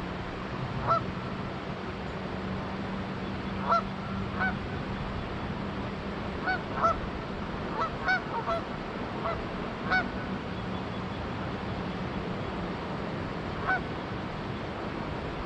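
Canada geese honking: about a dozen short, scattered honks over the steady rush of flowing river water.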